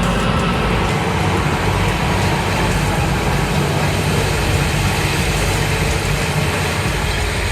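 A heavy vehicle's diesel engine running steadily, with a deep rumble under a broad mechanical noise.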